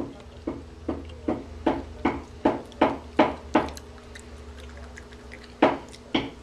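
Close-up chewing of a mouthful of cooked artichoke heart: wet mouth smacks, about two to three a second, stopping for a couple of seconds after the first few, then starting again near the end.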